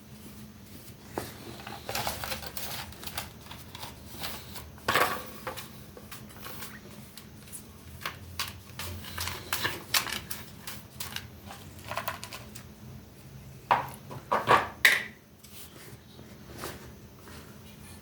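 Hands and tools working on a muddy mug: irregular taps, clicks and short scrapes, with a quick run of louder knocks near the end.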